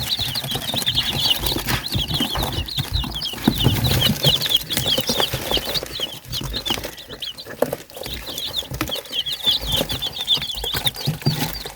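A brood of young chicks peeping nonstop, many short high cheeps overlapping.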